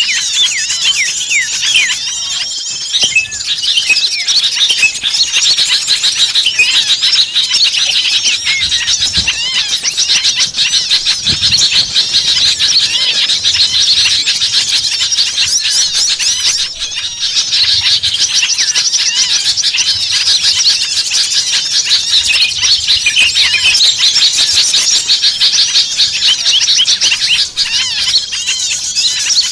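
A dense chorus of many small songbirds chirping and trilling over one another without a break: a bird-lure recording of noisy, agitated small-bird chatter, used to call small birds in.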